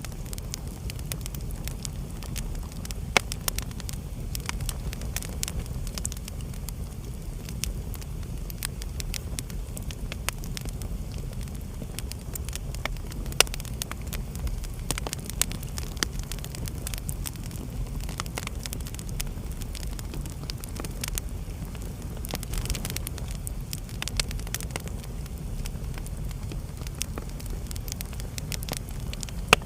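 Wood fire burning in a fireplace: a steady low rumble of flames with frequent irregular crackles and snaps, a few sharper pops standing out, the loudest about 3 and 13 seconds in.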